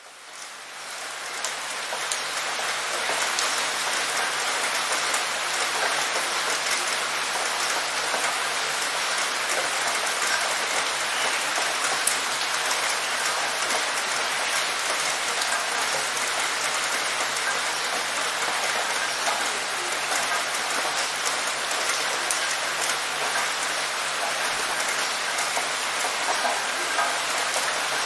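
Steady rain falling on a hard surface: a dense, even hiss with scattered drop splashes, fading in over the first two seconds.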